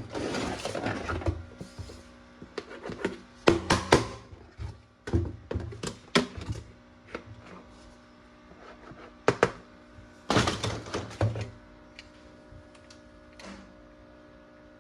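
Plastic toy guns and their packaging being handled: two bouts of rustling, one at the start and one about ten seconds in, with a string of sharp plastic clicks and knocks between them.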